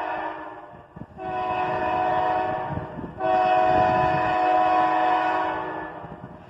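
Freight locomotive's multi-chime air horn sounding three blasts, the last the longest, over a low rumble from the approaching train.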